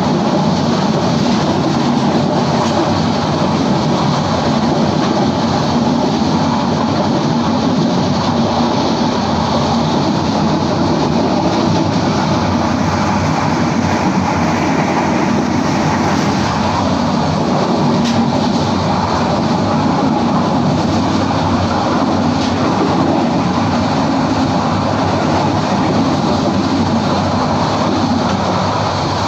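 Kurigram Express passenger train running at speed, heard from aboard: a steady, loud running noise of wheels on the track.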